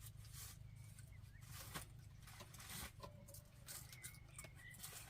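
Near silence: faint scattered clicks and taps over a low steady rumble, with a faint short high chirp about four seconds in.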